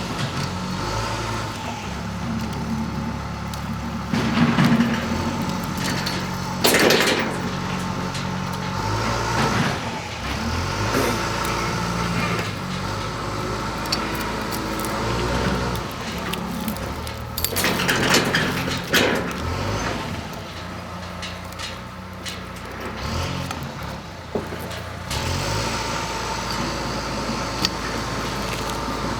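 A vehicle engine running, its pitch stepping up and down, with several loud knocks and clunks over it.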